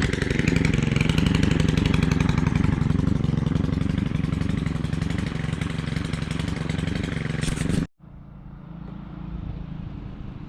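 Small two-stroke engine of a Stihl power tool running steadily at a fast idle. It stops suddenly about eight seconds in, leaving a quieter low rumble.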